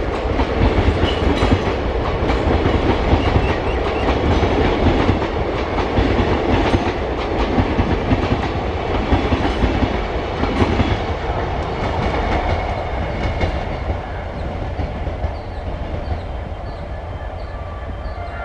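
Train passing close by, wheels clattering over rail joints over a steady rumble, easing off a little near the end.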